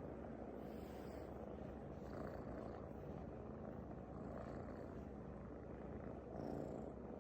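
Domestic cat purring, a low continuous rumble that swells slightly about every two seconds.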